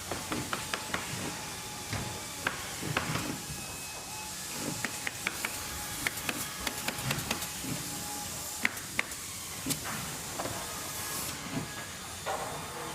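Scattered light clicks and clanks of hands working at a metal tool, over a steady background hiss; the chop saw is not running.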